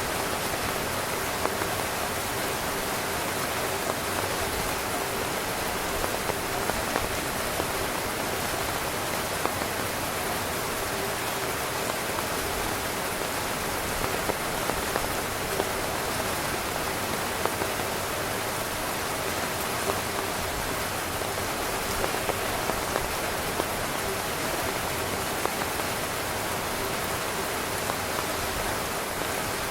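Steady heavy rain pattering on a tent's fabric, a dense even hiss with frequent small drop impacts.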